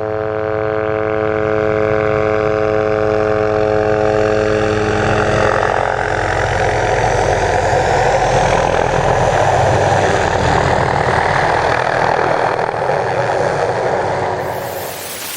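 MD 500D helicopter running, with steady, evenly spaced rotor and engine tones for the first few seconds. A rising rush of wind and rotor wash then builds and takes over. Near the end the sound changes abruptly to a brighter hiss.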